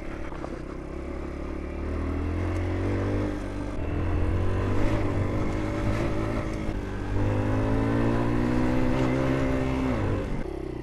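Small 50cc motorbike engine revving hard in three long surges, its pitch rising and falling, while the bike pushes through water deep enough to risk hydrolocking the engine; the revs drop away sharply near the end.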